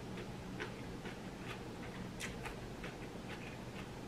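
A person chewing food with their mouth closed, picked up close: faint, irregular soft clicks and smacks.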